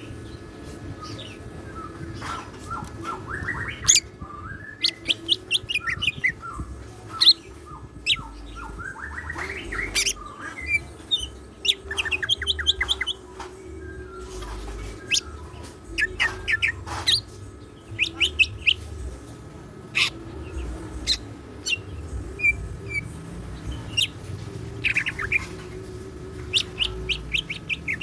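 A green leafbird (cucak ijo) singing busily and without pause: fast strings of sharp chirps and runs of rising notes. It sings in a varied song filled with learned 'siklon' phrases.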